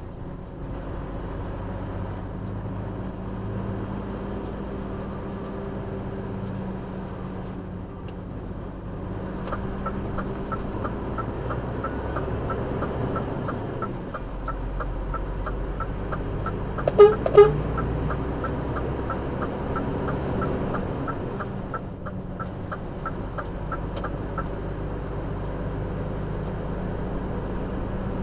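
Scania R450 truck's 13-litre straight-six diesel running steadily, heard from inside the cab. A quick, even ticking runs through the middle, and two short horn toots sound about seventeen seconds in.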